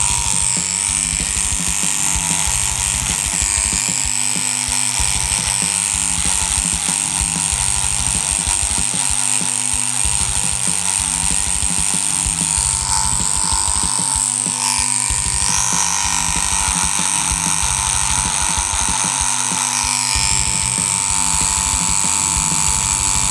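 Tattoo machine buzzing steadily with a high whine that dips briefly in pitch a few times, as it runs on practice skin.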